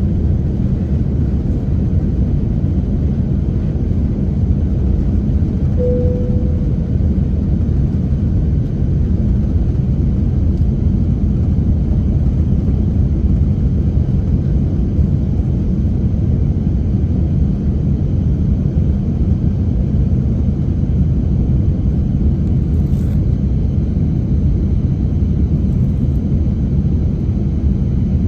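Steady low rumble of an Airbus A350-900's cabin noise, engines and airflow, unchanging throughout. A short single chime-like tone sounds about six seconds in.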